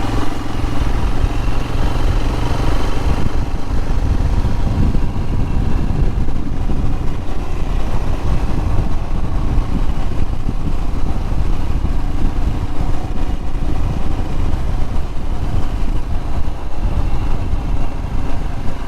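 Royal Enfield Himalayan's single-cylinder engine running at a steady road speed while riding, its air filter opened up for freer breathing. Heavy wind rumble on the microphone dominates the low end after the first few seconds.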